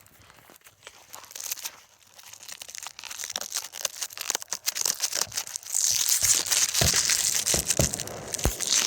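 Crinkling and rustling of plastic firework packaging being handled. It starts faint, becomes loud and close about six seconds in, and there are a few light knocks near the end.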